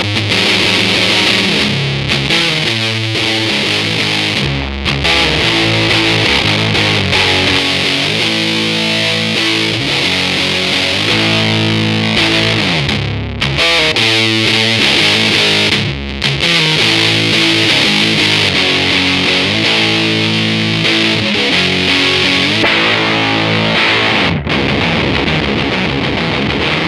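Electric guitar played through a fuzz pedal with its gain at maximum: a thick, heavily distorted riff of sustained chords and notes, with a few short breaks between phrases.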